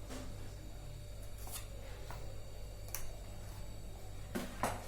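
A few light, separate clicks and taps of a spoon against kitchen containers as spices are added, over a low steady hum.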